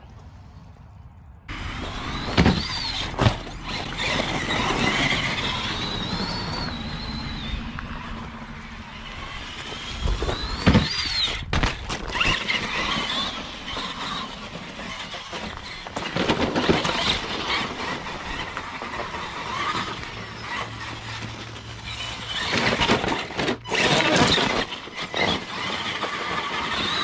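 Axial SMT10 Grave Digger RC monster truck driving on wet gravel: its electric motor whines, rising and falling with the throttle, over the crunch of the tyres, with several sharp knocks from jumps, landings or rollovers.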